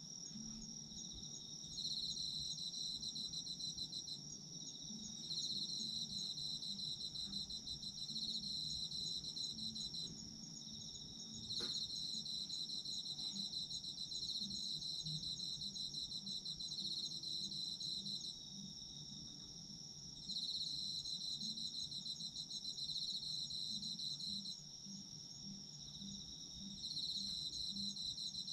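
Autumn crickets calling: one high, steady, unbroken trill, and over it a second, lower insect song of rapid pulses that comes in bouts of a few seconds with brief pauses between.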